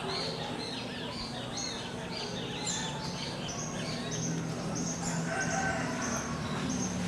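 Birds chirping over and over in quick, repeated high notes, which settle in the second half into a run of short, evenly spaced calls. A low steady hum runs underneath.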